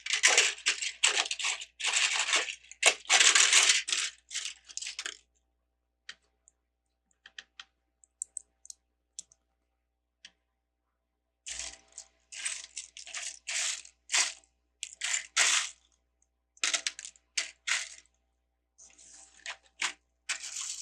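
Loose plastic LEGO pieces clattering and clicking as hands sift through a pile of bricks. The rattling is dense for the first few seconds, thins to scattered clicks, pauses briefly, then returns in short bursts from about halfway on.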